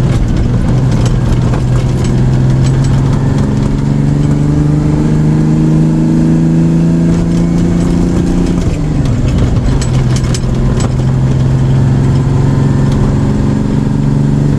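International 4370 truck's diesel engine running under load on a drive, its pitch slowly rising for several seconds, then dropping suddenly about nine seconds in and holding steady. A few sharp clicks or rattles come shortly after the drop.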